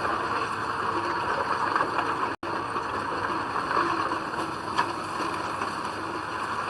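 Heavy earthmoving machinery running steadily, a diesel engine heard as a dense, even mechanical noise. It drops out for an instant about two and a half seconds in.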